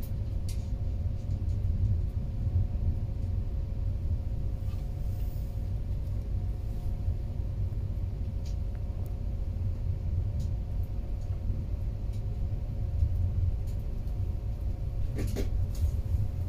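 Steady low rumble of a passenger train running along the line, heard from inside the carriage, with a faint steady hum and a few light clicks.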